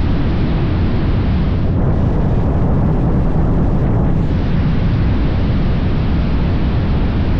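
Wind rumbling steadily and loudly on the microphone of a motorcycle ridden at road speed, drowning the engine and road noise.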